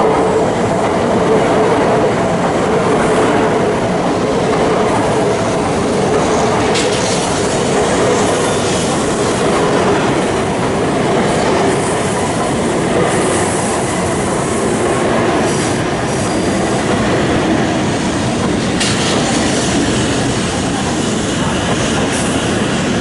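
Shinkansen bullet train running along the platform: a loud, steady rumble of wheels on rail with a high hiss, and a whine that slowly drops in pitch.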